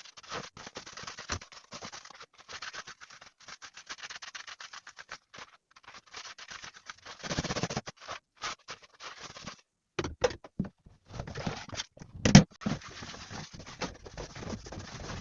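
Hand dishwashing sounds: water from a tap starting and stopping, with handling noises and clicks, and one louder knock about twelve seconds in.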